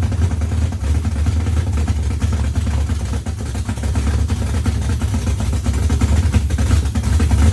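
Car engine idling steadily with a low, even rumble while it is checked for vacuum leaks.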